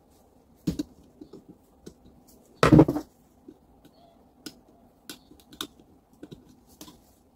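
Clicks and light knocks of an angle grinder's parts and hand tools being handled on a workbench, with one louder clatter, under half a second long, near the middle.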